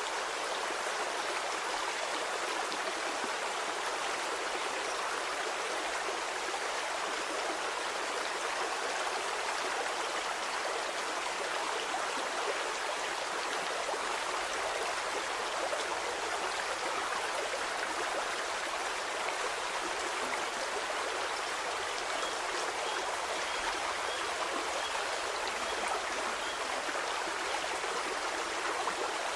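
A stream of water flowing and splashing over rocks, a steady rushing babble without let-up.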